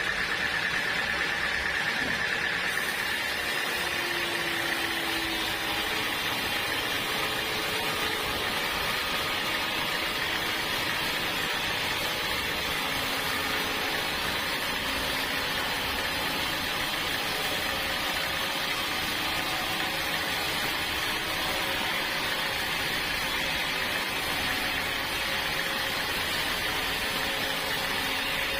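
Sawmill machinery running steadily: an even mechanical drone with a hiss that holds level throughout.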